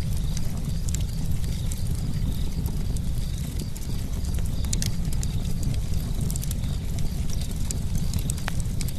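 Campfire burning, with irregular sharp crackles and pops from the wood over a steady low rumble of flames.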